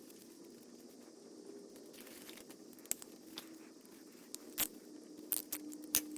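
A few sharp metallic clicks and clinks of hand tools and sockets against engine parts, starting about halfway in, over a faint steady hum.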